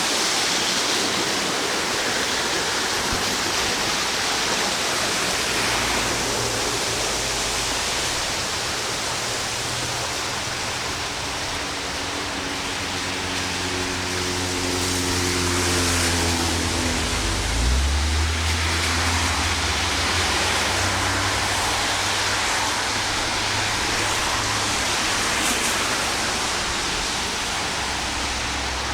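Steady rushing noise of heavy rain and flowing floodwater. About twelve seconds in, a low engine hum joins it, drops in pitch a few seconds later and carries on at a lower pitch.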